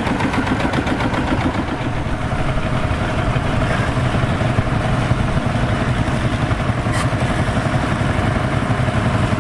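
Vintage tractor engine running steadily, with a fast, even beat of firing strokes. A steady tone joins in about two seconds in, and there is a single short click near the end.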